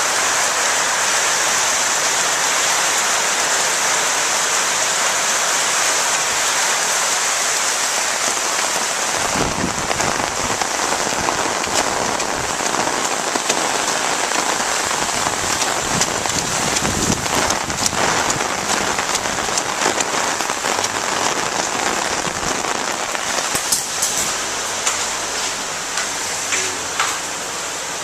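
Steady rain falling, with many louder individual drops striking a surface from about nine seconds in.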